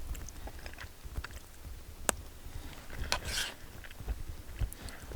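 A person chewing a mouthful of spaghetti, with small handling clicks, a sharp click about two seconds in and a brief rustle just after three seconds.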